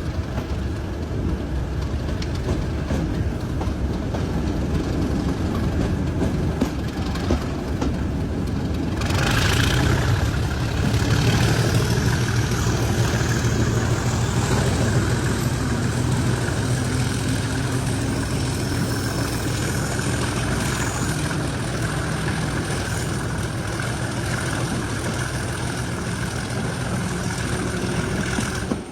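English Electric Class 37 diesel-electric locomotive's V12 engine working at the head of the train, heard from the coaches behind along with the running of the train. About nine seconds in the sound gets louder and fuller, and a high whistle rises slowly in pitch over the following seconds.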